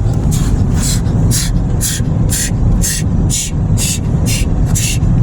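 Car-wash water jets sweeping over the car, heard from inside the cabin: a rhythmic hiss of spray about twice a second over a steady low rumble.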